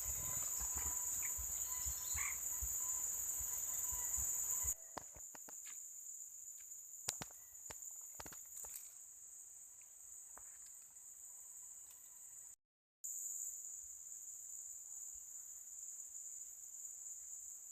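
Steady, high-pitched insect chorus of crickets or similar insects. It drops quieter about five seconds in, with scattered faint clicks for a few seconds after and a brief dropout near the end.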